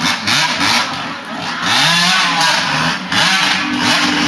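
Motocross dirt bike engine revving, its pitch rising and falling several times as the throttle is opened and closed.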